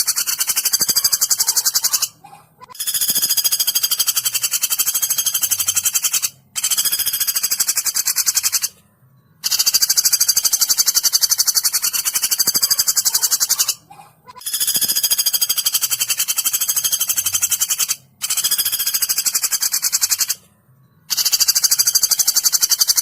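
Woodpecker calls: fast, high rattling trills lasting two to four seconds each, repeated about seven times with brief pauses between.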